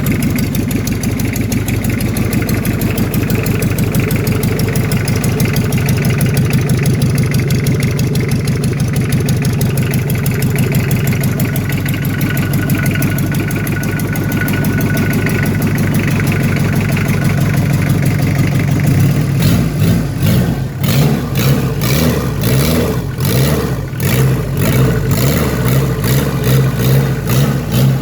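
Toyota 2C four-cylinder diesel engine running on a test start, idling steadily; about two-thirds of the way in its sound turns uneven, rising and falling irregularly.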